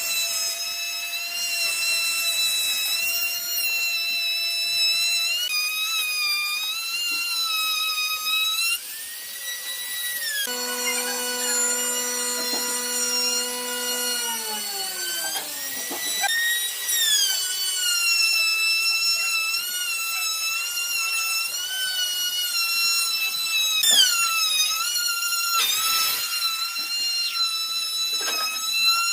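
Electric power tool motor whining at high speed, its pitch dipping and shifting as it is loaded and eased off. In the middle it winds down with a falling pitch before speeding up again.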